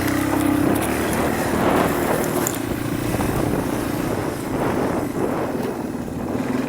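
Motorcycle engine running at low revs while being ridden, its pitch wavering a little but staying low and fairly steady.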